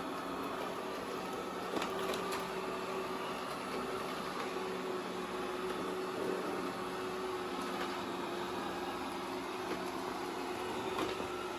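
Robot vacuum running, a steady motor whir with a held tone, while it drives over extension cords; a few sharp clicks about two seconds in and again near the end.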